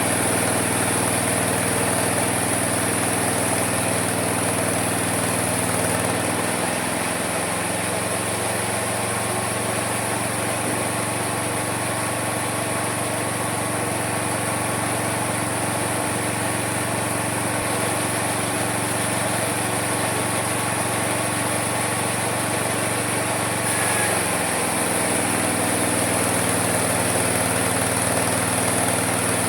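Homemade mini sawmill running steadily. At about 6 seconds its drive slows and drops in pitch as the blade takes a cut through the wood, holding the lower note until about 25 seconds in. Then it speeds back up once the blade runs free.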